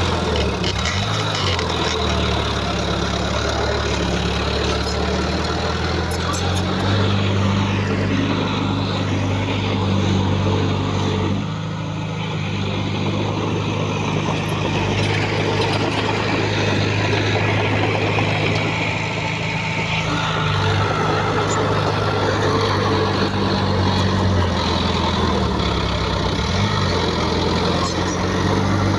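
Heavy diesel earthmoving machinery running steadily, its engine note shifting up and down several times as the load changes, with a brief drop in level about twelve seconds in.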